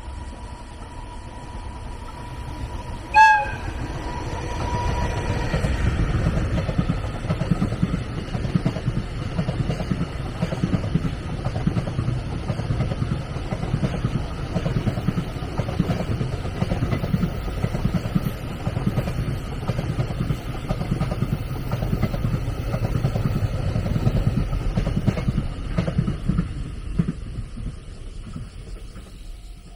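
A train horn gives one short toot, then a train passes close by for about twenty seconds, its wheels rumbling on the rails, before the sound fades near the end.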